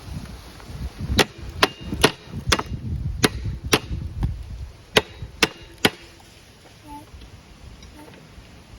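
Hammer blows driving an old broken socket wrench against the seized internals of a Briggs & Stratton flathead mower engine, about nine sharp metallic strikes in quick uneven groups, to knock the engine loose after it locked up on ingested sand.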